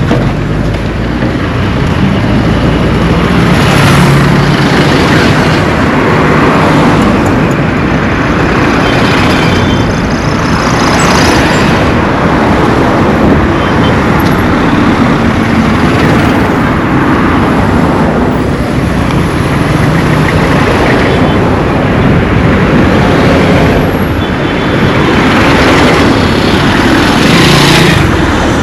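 Road traffic: vehicles passing close by one after another, each swelling and fading over a steady rumble.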